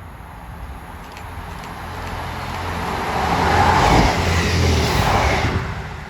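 A vehicle passing close by, getting steadily louder to a peak about four seconds in, then fading quickly near the end.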